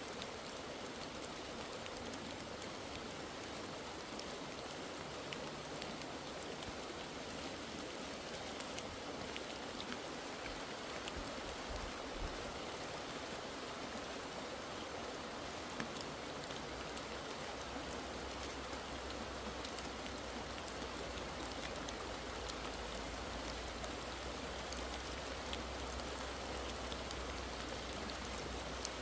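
Steady rain falling: an even hiss with scattered ticks of single drops. A faint low rumble comes in about halfway through.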